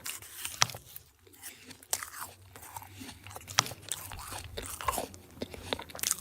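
Close-up handling of small plastic toy pieces and packaging: a run of crisp clicks, taps and crinkly rustles at irregular intervals.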